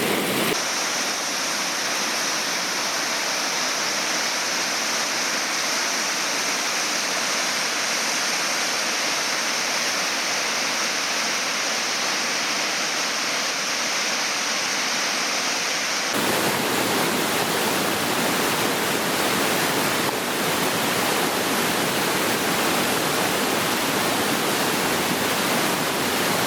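Waterfall and rapids on a river, a steady rush of falling water. The sound changes abruptly twice, about half a second in and after about sixteen seconds.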